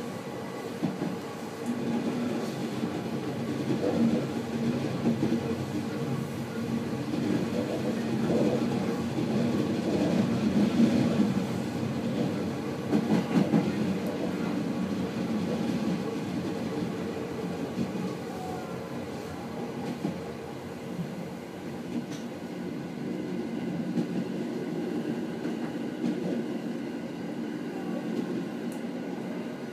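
JR East 209 series electric train running along the track, a steady rumble of wheels on rail with a faint hum. Now and then sharper knocks and swells come through as the wheels pass over rail joints.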